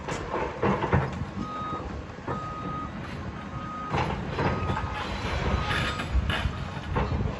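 Heavy machine's reversing alarm beeping five times, about once a second, over a low engine rumble. Sharp clanks and knocks sound now and then.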